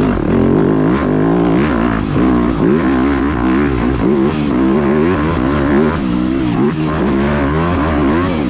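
Dirt bike engine revving up and down repeatedly as the throttle is worked on and off while riding a rough track.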